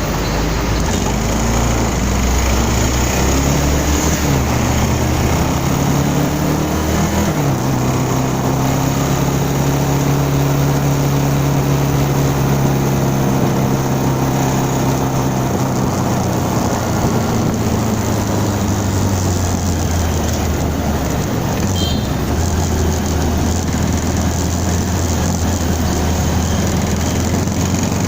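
Motorcycle engine and wind noise while riding. The engine note climbs about five seconds in, holds steady for several seconds of cruising, then drops off as the bike slows.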